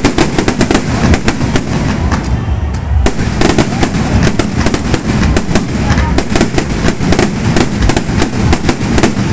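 Many fireworks going off at once: a dense, continuous crackle of bangs and pops that thins briefly about two seconds in, then picks up again.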